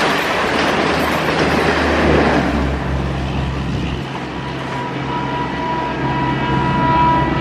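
Train running on the rails, with a broad rumble of wheels for the first two and a half seconds that then settles into a steady low hum with a faint high whine growing stronger about five seconds in.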